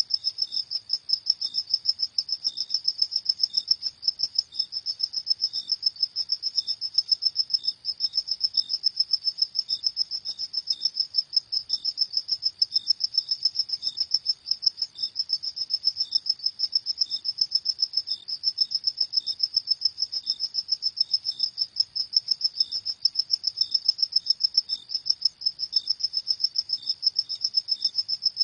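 Crickets at night chirping in a fast, high-pitched pulsing trill that repeats steadily several times a second. A fainter, slightly lower chirp from another cricket comes in now and then.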